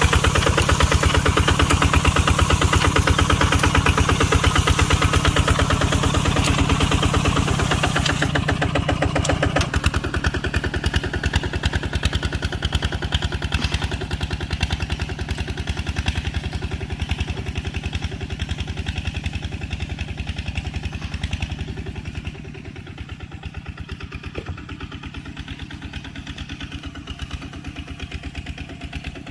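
Tractor engine running with a rapid, even firing beat. It is loud for the first eight seconds or so, then drops to a lower level, and drops again around twenty-two seconds in.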